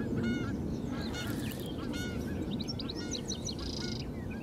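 Wild birds calling: a string of short repeated calls throughout, joined near the end by higher quick chirps and a brief trill.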